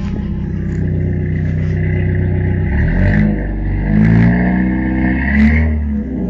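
1998 Chevy S-10's 2.2-litre four-cylinder engine through Flowmaster 40 Series dual exhaust, idling steadily, then revved up and let fall back three times in the second half.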